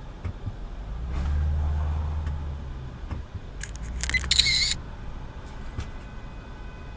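Road and engine rumble from inside a moving car that swells for a couple of seconds, then a short, loud, high-pitched burst with a wavering pitch a little over halfway through.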